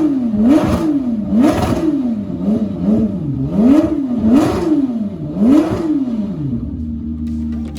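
Supercar engine revved in a series of quick blips: its pitch climbs and falls back several times, each rise with a burst of exhaust noise. It then settles back to a steady idle near the end.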